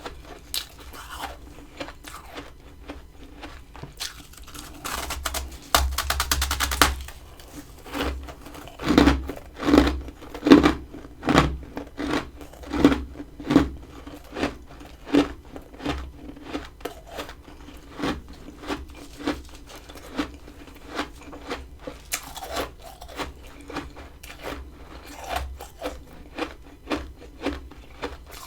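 Freezer frost being bitten and chewed close to the microphone: a long run of crunches about once or twice a second, loudest and densest in the middle, with a short continuous crunching stretch about six seconds in.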